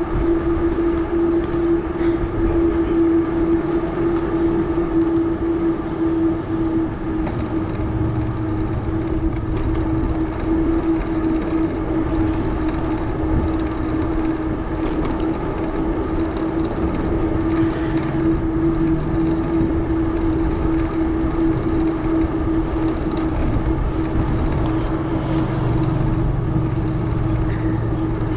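Bicycle's wide 650b tires humming loudly on pavement while riding: a steady, even tone with no breaks.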